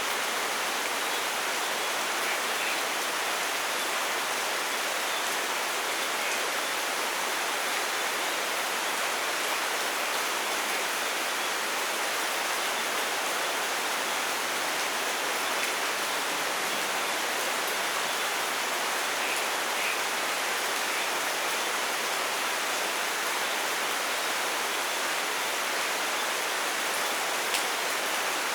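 Steady rain, an even hiss, with a few faint drop ticks scattered through it.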